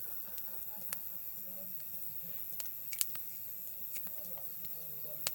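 Wood campfire crackling: a handful of sharp, irregular pops over a steady hiss, the loudest about three seconds in.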